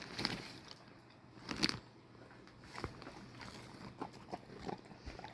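A dog chewing walnuts, with faint scattered crunches and clicks and one louder crack about a second and a half in.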